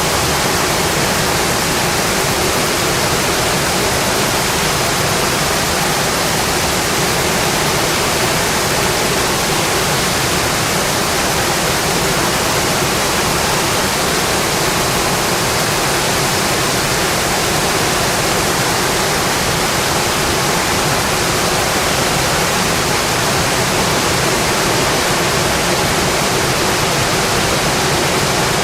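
Steady rain falling, a dense even hiss with no change in level.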